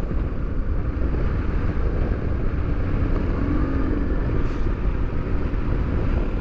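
Motorcycle riding at road speed, heard from the rider's own bike: a steady low rumble of engine and wind. A faint tone rises and falls about halfway through.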